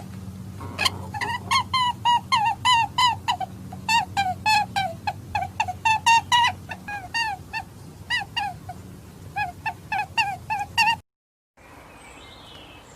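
Rabbit squeaking: a quick series of short, high squeaks, about three a second, that stops about eleven seconds in.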